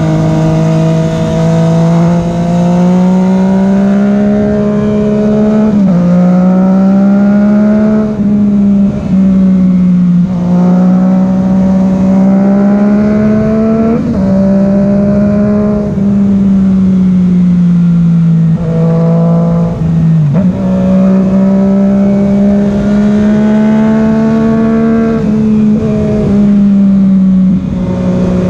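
Yamaha FZ-09's 847 cc inline three-cylinder engine running under load while riding, heard from on the bike. Its pitch climbs slowly under throttle and drops sharply several times, about six, fourteen, twenty and twenty-five seconds in.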